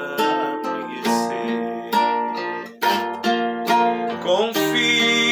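Music: a hymn sung in Portuguese to acoustic guitar, with chords struck every half second to a second under a long held sung note.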